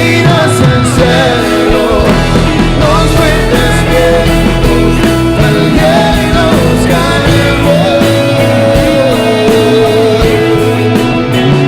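Worship band music with a steady beat: sustained chords under a gliding melody line.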